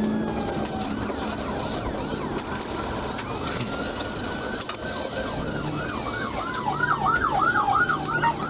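Police siren sounding during a pursuit, over steady road and engine noise. It runs as slow falling wails, then switches to a fast yelp of about four or five sweeps a second about two-thirds of the way in.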